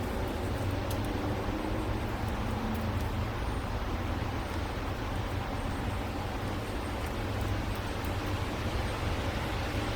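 Steady low rumble with an even hiss over it, like distant road traffic.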